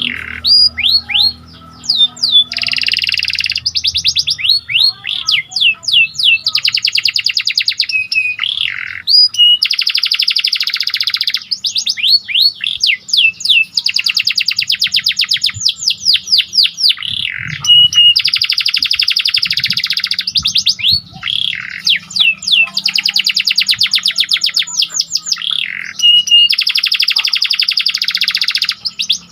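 Domestic canary singing: long rapid trills of quickly repeated notes, alternating with short sweeping whistled notes, one phrase after another without pause.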